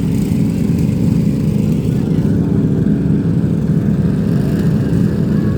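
Several vehicle engines running together in a steady, loud rumble.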